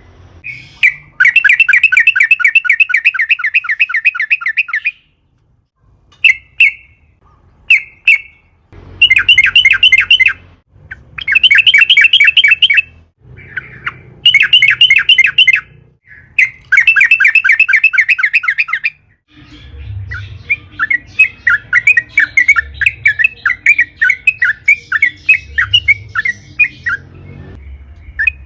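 Yellow-vented bulbul (trucukan) singing in fast, rattling chatter phrases of one to four seconds each, repeated with short pauses. Near the end the notes come as a looser, more spaced-out run.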